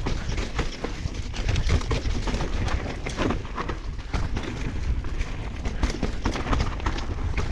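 Mountain bike descending a rough dirt trail: constant rumble of tyres and wind on the mic, broken by frequent clicks, knocks and rattles as the bike takes the bumps.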